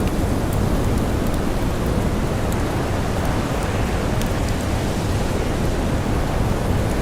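Blizzard wind blowing in a steady low rush, with the small scattered crackles of a campfire over it.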